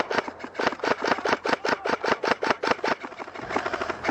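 Airsoft gun firing on full auto, a rapid steady stream of shots at about eight a second, turning faster and denser near the end.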